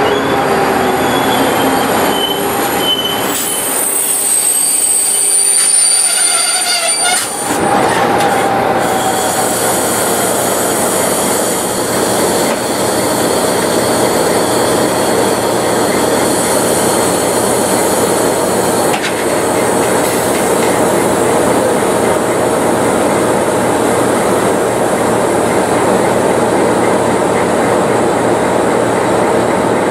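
A diesel-hauled passenger train of old coaches braking to a stop at a platform, its wheels and brakes squealing in falling tones for the first several seconds. Then a steady rumble as the diesel locomotive idles.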